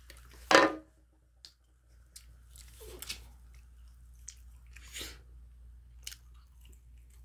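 Person chewing and crunching food, with intermittent mouth and bite sounds. There is one louder, short sound about half a second in.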